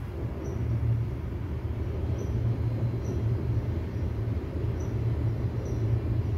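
Suburban passenger train rumbling across a railway bridge. The steady low rumble grows over the first second, then holds, with faint short high ticks every second or so.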